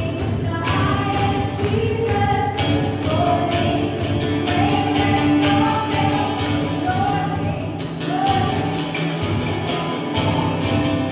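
Gospel worship song: voices singing together over a band with a steady beat.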